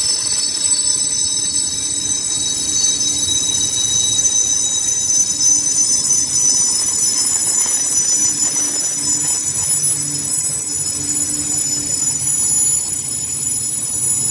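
Electric train running through the station, a continuous rail rumble with several steady high-pitched whining tones that sink slightly in pitch.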